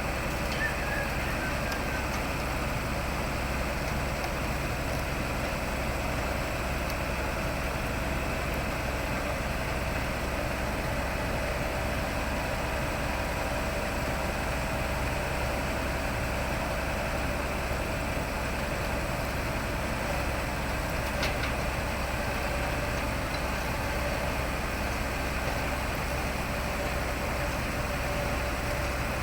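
Heavy diesel engine of road-paving equipment running steadily, with an even, unchanging rumble.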